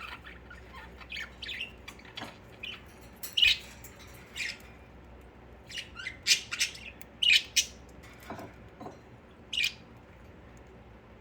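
Pet budgerigars chirping and squawking in short separate calls, with a cluster of louder sharp squawks in the middle.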